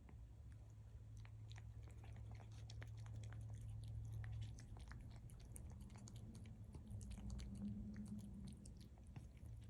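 Cat chewing food, faint, with a quick irregular run of small clicks from its teeth over a low steady hum.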